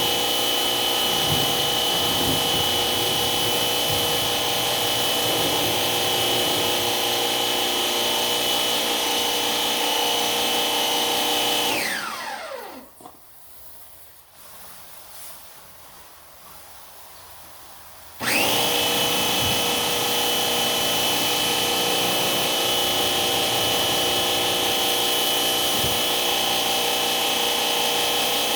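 An electric motor tool runs steadily with a high whine. About twelve seconds in it is switched off and winds down with a falling pitch. Some six seconds later it is switched back on and spins up quickly to full speed.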